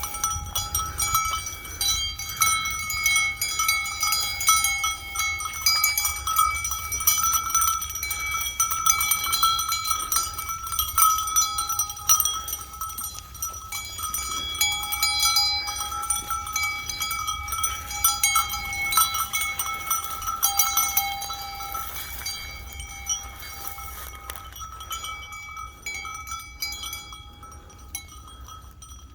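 A livestock bell on the moving sheep flock clanking over and over, each ring running into the next. The jangling thins out and gets quieter near the end.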